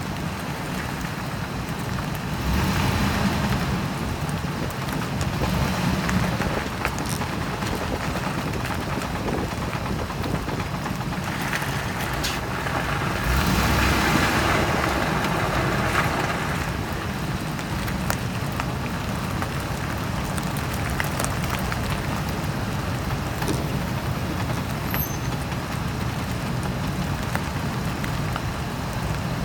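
Ford Expedition driving, with scattered sharp metal clicks from its worn driveshaft U-joints over the steady running and road noise; the noise swells for a few seconds near the middle.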